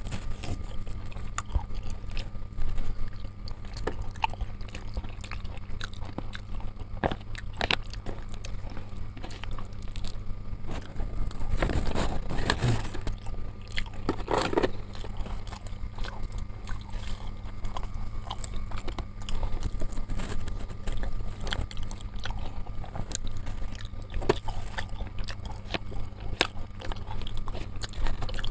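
A man chewing and biting chicken satay close to the microphone, with many small scattered clicks over a steady low hum.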